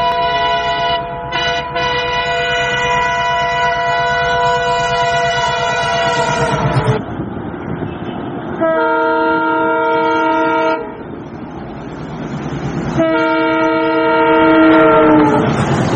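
Train horn sounding in three long chord blasts over the rumble and clatter of a moving train. The horn's pitch drops at the end of the first and last blasts, as the train passes.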